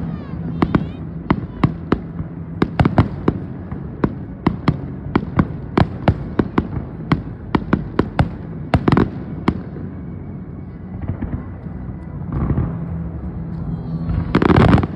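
Fireworks going off: a rapid run of sharp bangs, several a second, for about nine seconds, then a lull and a louder burst near the end.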